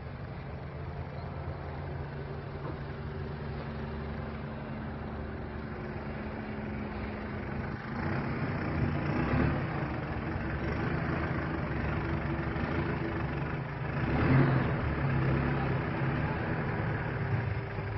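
Car engine running at idle, a steady low hum that grows louder about eight seconds in and rises briefly near fourteen seconds.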